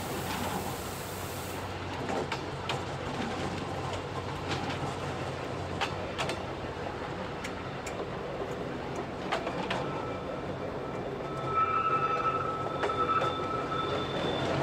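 Rack-railway train running on narrow-gauge track: a steady running noise with scattered sharp clicks from the wheels and rails. About ten seconds in, a high thin wheel squeal sets in and grows louder toward the end.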